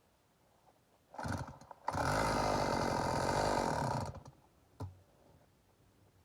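Stihl MS290 two-stroke chainsaw running only in short stretches. A brief burst comes about a second in, then about two seconds of steady running that cuts off, then a short blip. The saw is stalling and not staying lit.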